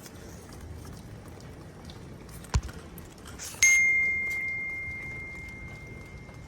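A short click, then about a second later a single bright ding: one clear ringing tone struck once that slowly fades away.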